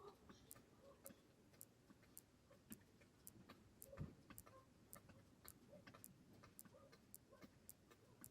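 Faint, steady ticking at about two ticks a second over a soft hiss, with a single low thump about four seconds in.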